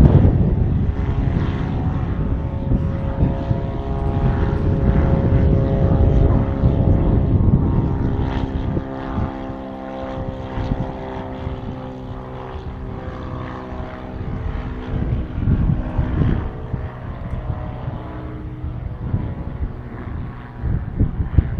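Aircraft engines running at an airport: a steady hum of several held tones over a low rumble, with wind buffeting the microphone, heaviest in the first half.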